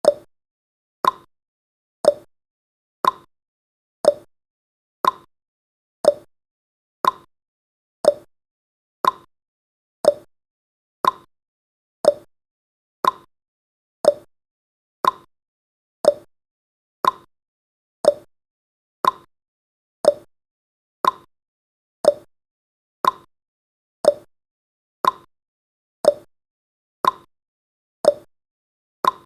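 Clock tick-tock sound effect: a short, sharp tick once a second, alternating between a higher tick and a lower tock, marking off the countdown's seconds.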